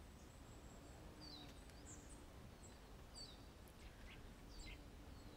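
Near silence with faint bird chirps: short falling notes repeated about once a second over low background noise.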